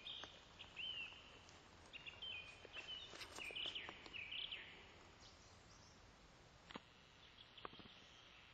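Small birds chirping faintly outdoors: a run of short chirps in the first half, then quieter, with a couple of faint clicks near the end.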